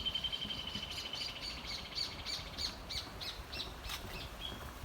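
Songbirds singing: a high steady trill that fades over the first second and a half, and a run of short repeated chirps, about three a second, that slows and stops about four seconds in.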